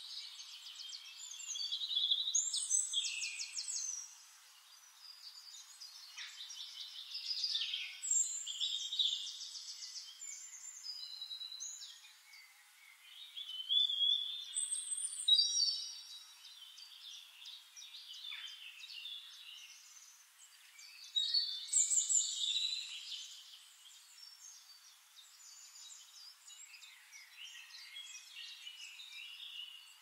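Forest birds singing over one another: several songbirds with rapid trills, chips and whistled phrases. The song comes in louder spells every few seconds with softer twittering between.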